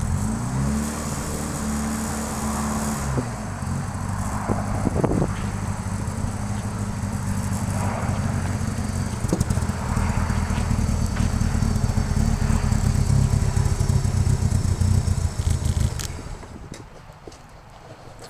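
Toyota Starlet's swapped 4A-GE four-cylinder engine running as the car drives slowly up, with a short rise in revs at the start. About sixteen seconds in, the engine sound cuts off suddenly.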